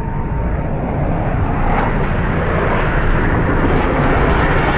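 Aircraft engine noise: a steady, loud rushing sound that grows slightly brighter toward the end.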